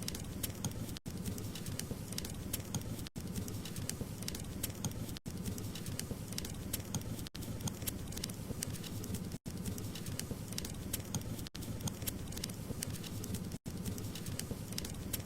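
Wood fire burning with a steady low rumble and many small crackles and pops, broken by very short dropouts about every two seconds.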